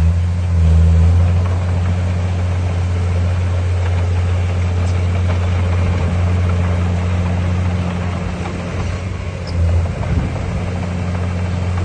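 Heavy construction machine's diesel engine running steadily as a low, even hum, swelling briefly about half a second in and again near ten seconds.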